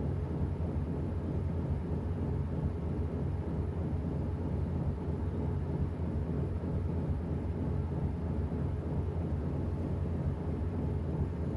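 Washing machine running with a steady low rumble.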